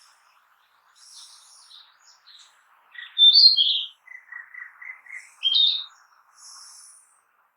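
Narcissus flycatcher singing. Faint high notes about a second in are followed by a loud slurred whistle around 3 seconds, a quick run of short lower notes, another loud whistle, and a high buzzy phrase near the end.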